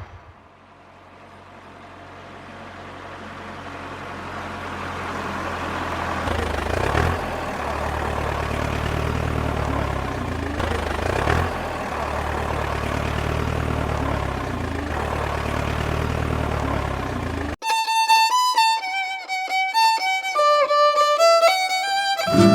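A steady engine hum fades in over the first several seconds and dips briefly in pitch twice. About 17 seconds in it cuts off abruptly, and a bright violin melody takes over.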